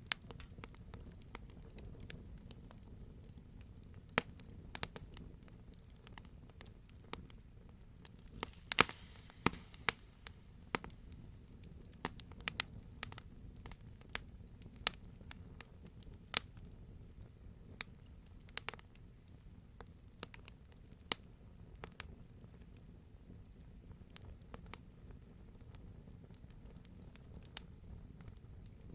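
Campfire burning: irregular sharp pops and snaps of burning logs over a low, steady rumble of flame, with a quick cluster of louder pops and a short hiss about nine seconds in.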